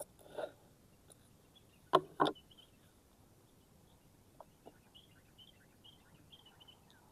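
A few sharp clicks or knocks, one near the start and two in quick succession about two seconds in, then faint short bird chirps.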